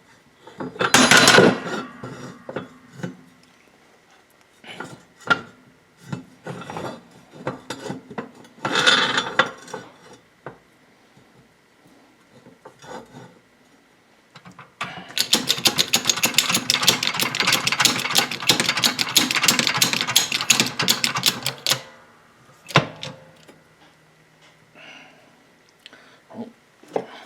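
Metal hand tools working on a VW front axle beam during link bushing removal: scattered clinks and knocks, then about six seconds of rapid, continuous clicking past the middle.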